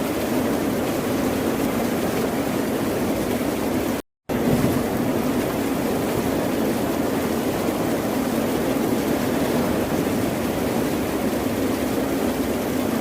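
Steady ocean surf, a continuous wash of waves with no distinct breaks. The sound cuts out to silence for a split second about four seconds in.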